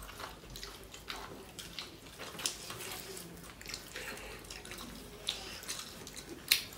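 Wet mouth sounds of chewing a handful of rice and curry eaten by hand: a run of irregular smacking clicks, with a sharper smack near the end.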